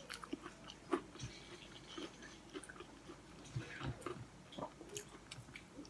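Someone chewing a deep-fried, breadcrumbed sausage roll of mashed potato and cheese, with scattered faint crunches from the crisp coating.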